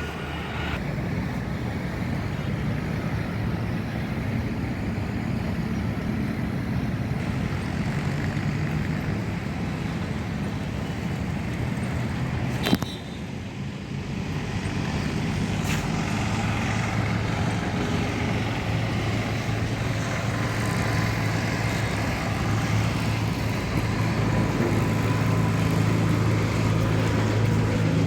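Steady rumble of road traffic or a moving vehicle, with a low engine hum that grows stronger in the second half. A single sharp click comes about halfway through.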